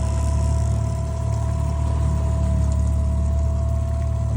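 Boat engine running steadily at trolling speed: an even low drone with a thin, steady whine above it.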